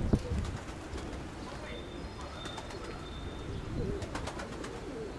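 Domestic pigeons cooing in short, wavering calls, over a low rumble of gusty wind on the microphone.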